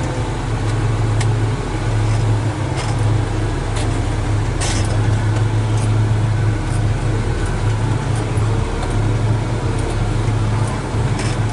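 Caterpillar 980M wheel loader's diesel engine running steadily under load while carrying a heavy bucket of gravel, heard from inside the cab, with a few short sharp knocks.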